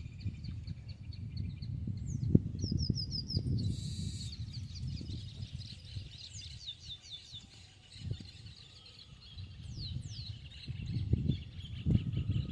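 Birds calling outdoors: repeated quick series of short, falling high chirps throughout, over a steady low rumble, with a brief hiss about four seconds in.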